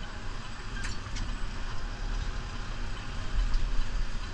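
New Holland Powerstar 75 tractor's diesel engine running with a steady low rumble, with a couple of faint clicks about a second in.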